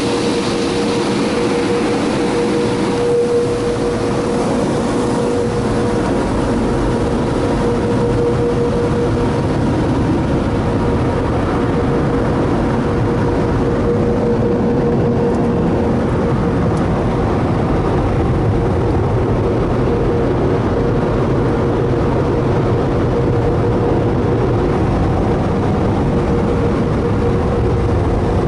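Automated car wash tunnel equipment running, a loud, constant rush of noise with a steady hum through it, heard from inside the car on the conveyor.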